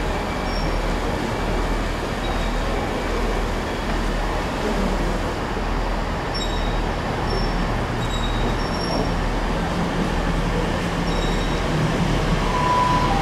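Elizabeth line Class 345 electric multiple unit running slowly into the platform, a steady rumble of wheels and running gear with a few brief high-pitched squeaks. A short beep sounds near the end.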